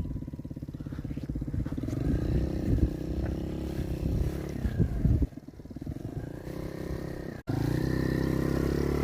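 Yamaha YFZ50 youth ATV's small 49cc four-stroke single running, its pitch rising and falling with the throttle as it rides off. It drops away about five seconds in, and after an abrupt break near the end it is heard louder and steady.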